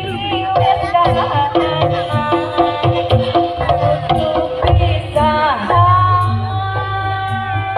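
Instrumental interlude of Javanese dance-accompaniment music: melodic instruments play a repeating tune of short and held notes over a steady hand-drum rhythm.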